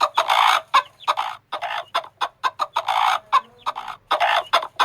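Ostrich calling: a string of short, harsh, raspy calls roughly once a second, with brief clicks between them.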